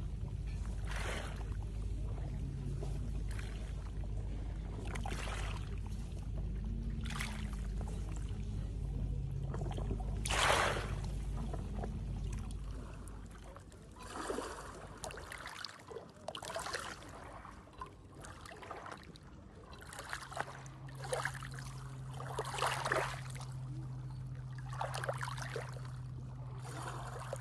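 Water splashing and lapping in short irregular bursts, over a low steady rumble that drops away about halfway through; a low steady drone comes in near the end.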